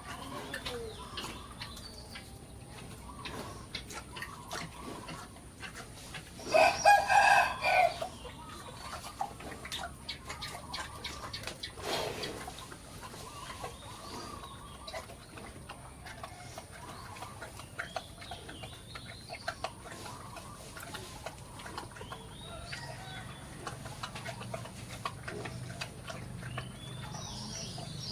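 A rooster crows once, loudly, about six and a half seconds in, with chickens clucking and small birds chirping faintly around it.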